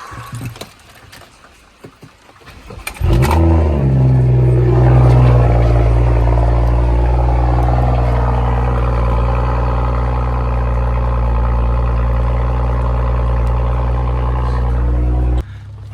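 BMW F10 535i's turbocharged inline-six, with the resonator and muffler deleted for a straight-pipe exhaust, starting about three seconds in after a few quiet clicks. It flares up, then settles into a loud, steady idle, which cuts off abruptly just before the end.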